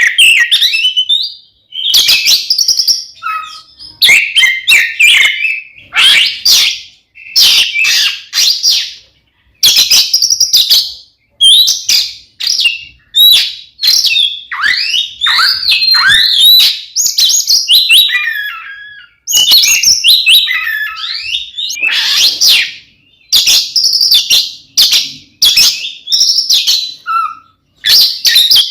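Oriental magpie-robin (kacer) singing loudly in its fighting mode: short phrases of rapid, varied whistled and harsh notes, each a second or two long, with brief pauses between them.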